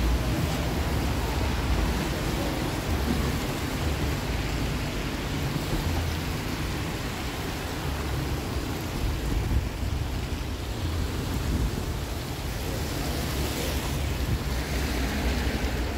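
Rain hissing steadily, with wind buffeting the phone's microphone in uneven low rumbles.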